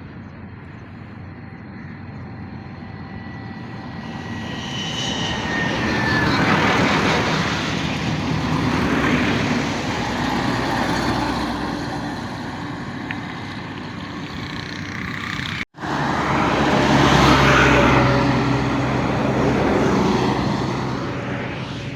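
Trucks passing one after another, the road noise swelling up and fading away about five times, with a sudden break about two-thirds of the way through.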